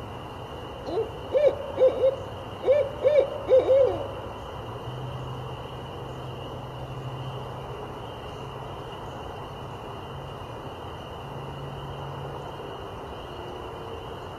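An owl hooting: a quick run of about eight short hoots in two groups, over a steady background hiss.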